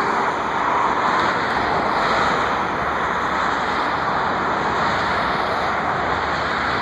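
Steady roar of jet airliner engines, a rushing noise that holds at a constant level.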